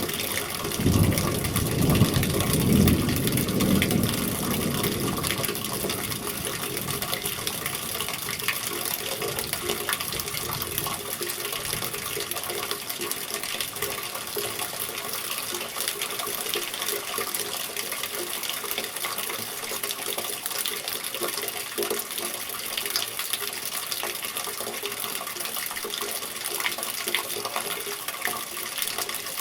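Steady rain with water running from a gutter. A roll of thunder rumbles in the first few seconds, loudest about one to four seconds in, and dies away by about ten seconds.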